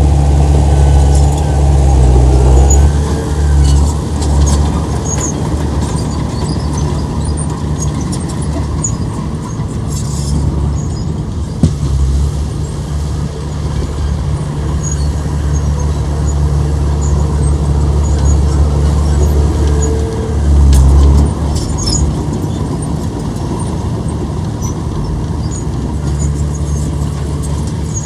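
Heavy diesel earthmoving machinery running under load with a steady, loud low drone that swells for a moment near the end. A single sharp click sounds partway through.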